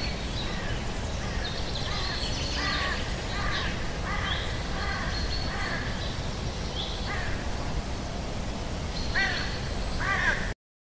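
Repeated bird calls, short arched calls in quick series, over a steady background noise. The sound cuts off suddenly near the end.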